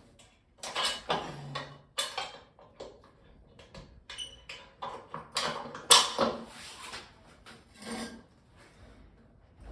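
Metal gym equipment being handled while an incline bench is set up: an irregular string of clanks, scrapes and creaks, the loudest about a second in and near six seconds in.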